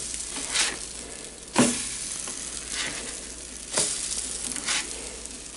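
French toast sizzling on a Blackstone 17-inch electric griddle while the slices are flipped with a spatula: a steady sizzle broken by about five short scrapes and taps of the spatula on the non-stick plate.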